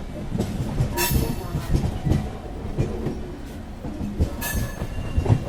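Train wagons rolling along the track, their wheels knocking irregularly over the rail joints, with two brief high wheel squeals: one about a second in and one about four seconds in.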